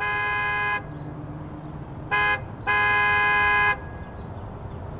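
A horn sounding in blasts, a long one, a short one, then another long one, each at one steady pitch, over a low steady engine hum.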